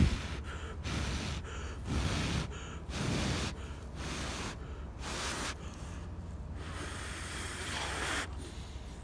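A man breathing hard close to the microphone: a run of noisy breaths, about one a second, with a sharp click at the very start.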